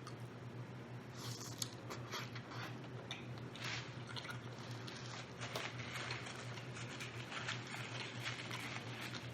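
Close-miked chewing and biting of food, irregular wet smacks and little crackles starting about a second in, over a steady low hum.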